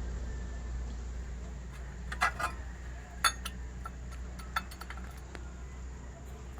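A few light metallic clinks and taps, a pair about two seconds in, a sharper one near the middle and another a little later, over a steady low hum.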